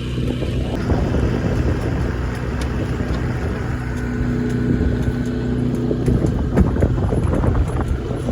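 Small sailboat's outboard motor running steadily under way, a constant low drone, with wind buffeting the microphone.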